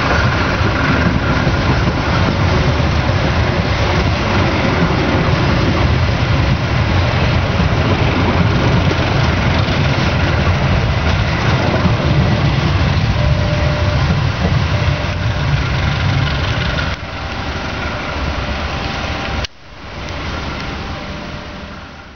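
Passenger train coaches rolling past close by: a loud, steady rumble of wheels on rails. It eases about 17 seconds in, breaks off sharply at about 19 seconds, and a quieter, more distant rumble follows.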